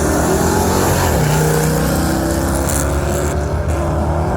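A motor vehicle engine running; its pitch falls about a second in and then holds steady.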